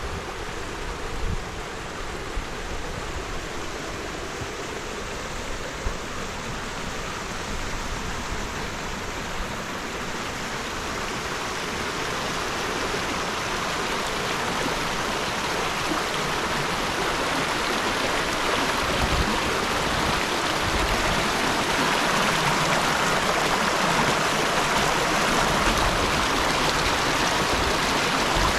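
Waterfall and stream water rushing steadily, growing gradually louder over the second half.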